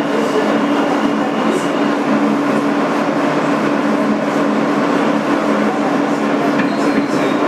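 Interior of an R-160B New York subway car with a steady, loud running noise and a constant two-note hum throughout.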